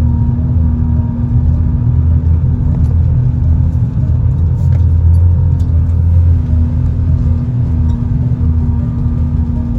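Four-wheel-drive vehicle's engine running steadily under load on a snowy track, a loud continuous low rumble with a steady drone throughout.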